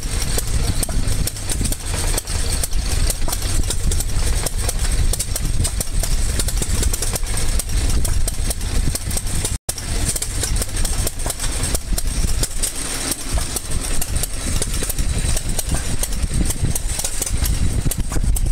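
A running engine idling steadily under a low rumble, with the sound dropping out for an instant about halfway through.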